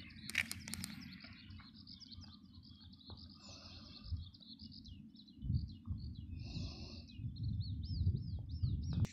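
Small birds chirping and twittering steadily, with a quick run of repeated rising-and-falling notes near the end. Underneath is a low rumble that grows louder in the second half.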